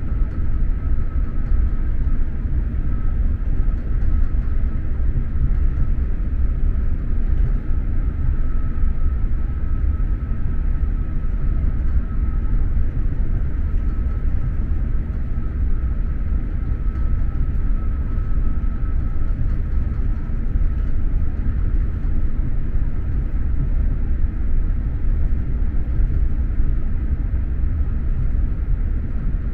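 Steady low rumble of an X2000 electric high-speed train running at speed, heard from inside the passenger coach, with a faint high whine that fades out about twenty seconds in.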